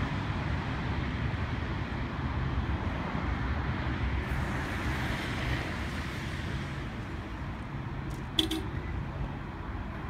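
Freight train running on the line, a steady low rumble with a hiss that swells and fades about halfway through. A sharp click about eight seconds in.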